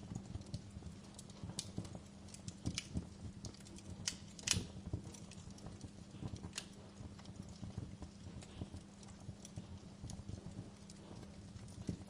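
Wood fire burning in a fireplace, crackling with irregular pops and snaps, the loudest about four and a half seconds in, over a steady low hum.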